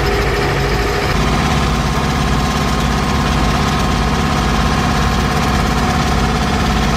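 Heavy diesel truck engine running steadily at low revs, its note changing about a second in.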